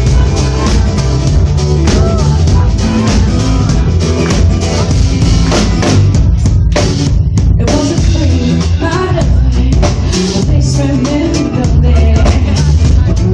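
Live band music played loudly: a drum kit pounding under bass and other instruments, with some wordless vocal lines.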